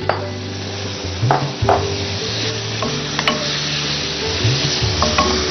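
Boiled vegetables sizzling as they fry in hot oil in a pan and are stirred, with a spatula clicking against the pan a few times.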